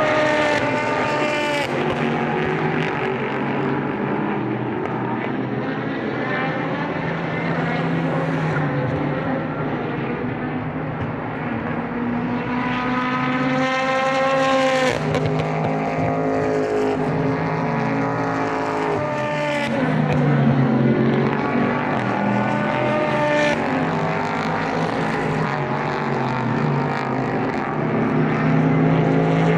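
Several Super GT race cars passing one after another at speed, their engines at high revs. Each engine note sweeps down in pitch as the car goes by, with the closest, loudest pass about halfway through.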